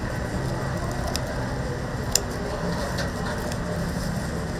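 Oak firewood fire crackling, with a few sharp pops over a steady low rumble.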